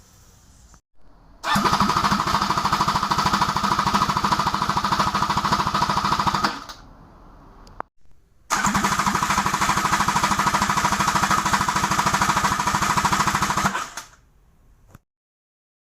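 A Kawasaki Ultra 310R supercharged four-cylinder jet-ski engine is turned over by its starter motor in two bursts of about five seconds each, a fast, even pulsing whir with a short pause between. It cuts off near the end.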